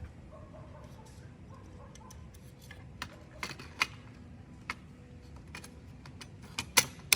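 Irregular small clicks and taps of hard parts being handled, sparse at first and more frequent in the second half, with two louder clicks near the end.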